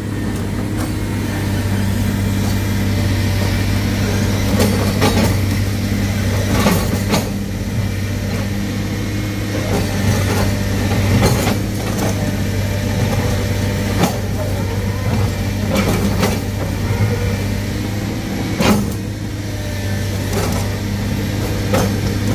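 Heavy diesel engine running steadily at a low hum, with repeated sharp knocks and clanks over it.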